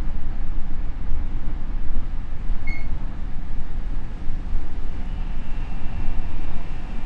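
Odakyu 5000 series electric train running on the rails, a steady low rumble with a brief high squeak about three seconds in and a faint high steady tone joining about five seconds in.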